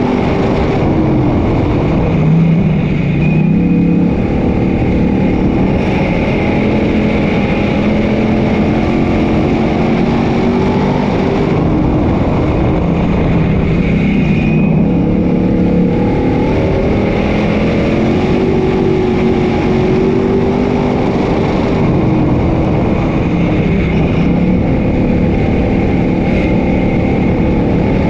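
Several dirt-track modified race cars running on the track, their engines rising and falling in pitch as they throttle up and back off around the oval, overlapping one another.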